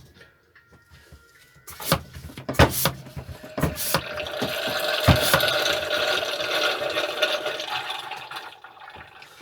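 A few knocks, then engine oil pouring out of a Ryobi lawnmower engine into a container for about five seconds, tailing off as the engine drains.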